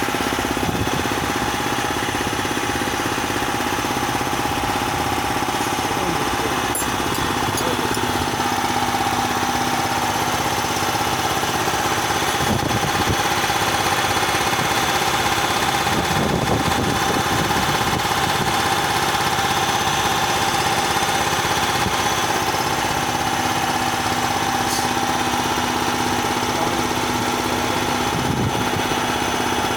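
Bauer high-pressure air compressor rated to 330 bar running steadily, a constant mechanical drone with an unchanging hum.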